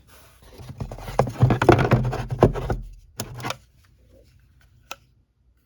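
Plastic vacuum attachments and their cardboard box being handled: dense rattling and rustling for about three seconds, a shorter burst just after, then quiet with a single sharp click near the end.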